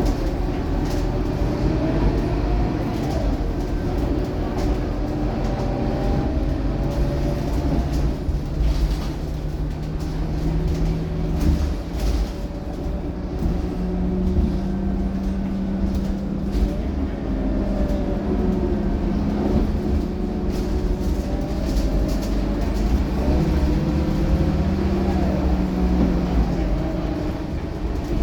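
Scania K230UB city bus's five-cylinder diesel engine running under way, its pitch changing as the bus accelerates and eases off, with a higher steady engine note from about twelve seconds in.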